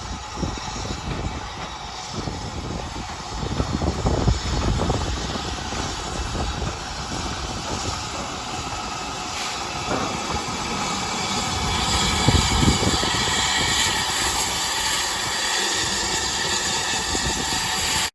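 Heritage steam train running, with wind buffeting the microphone in gusts. A broad hiss grows louder in the last third.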